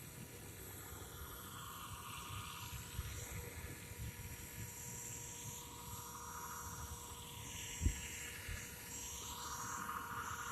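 Blade 230S V2 RC helicopter in flight, its brushless motors and rotors whining, the pitch sweeping down and back up twice as it flies circuits. A single short thump comes near the end.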